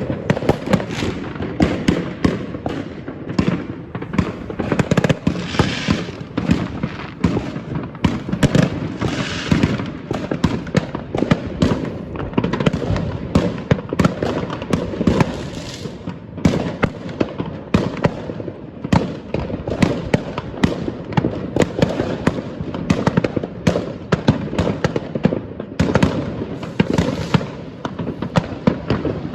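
Many fireworks bursting at once: a dense, continuous barrage of bangs and crackles with no pause, with sizzling crackle patches now and then.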